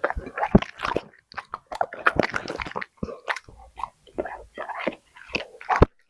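A dog chewing food, with irregular crunching bites in quick clusters.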